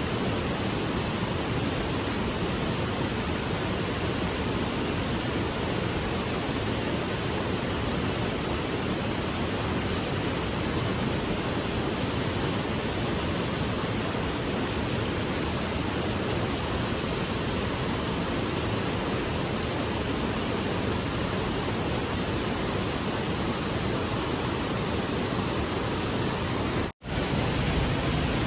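Rushing stream water, a steady even hiss, broken by a split-second cut to silence near the end.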